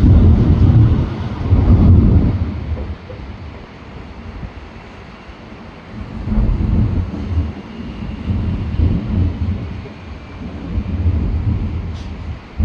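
Fireworks going off in deep, rolling booms that come in waves: loudest in the first two seconds, then rising again about six seconds in and near the end.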